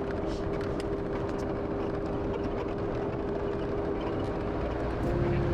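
Land Rover Defender TD5 driving, a steady run of diesel engine and road noise with a constant hum.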